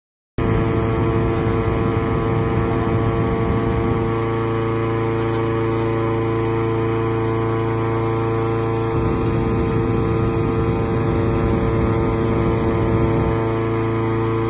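Engine-driven balloon inflator fan running at a steady pitch, blowing cold air into a hot air balloon envelope lying on its side: the cold-inflation stage before the burner is lit.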